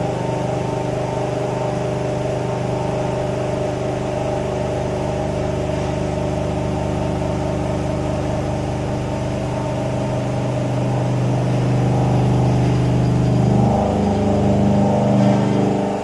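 CNC vertical machining centre face milling with coolant on, a 50 mm face mill taking a 0.5 mm cut: a steady spindle-and-cutting drone with several pitched lines over a hiss. It grows louder and shifts in pitch about 14 seconds in, then falls away abruptly at the very end.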